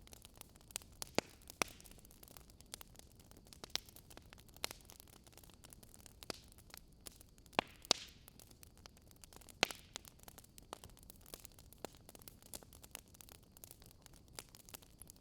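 Campfire ASMR: wood fire crackling, with irregular sharp pops and snaps over a faint hiss, a few louder pops standing out.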